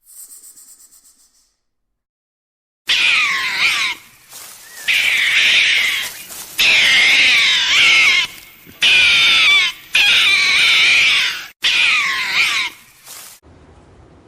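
Loud, wavering high-pitched animal calls, in several short stretches broken by abrupt cuts, preceded by a brief faint hiss.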